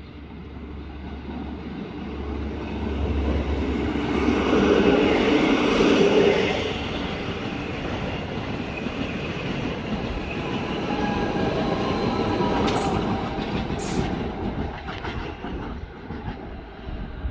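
Rhaetian Railway red electric multiple-unit train rolling along the platform, its running noise building to a peak about five seconds in as it passes close by. Faint wheel squeal follows as it runs on through the station.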